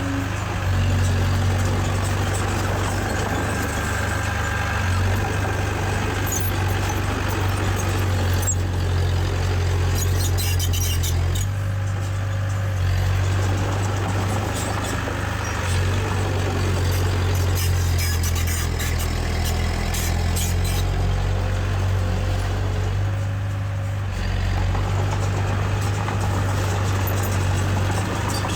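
Komatsu D20A bulldozer's diesel engine running steadily, a deep drone, with scattered high metallic squeaks and clinks coming and going over it.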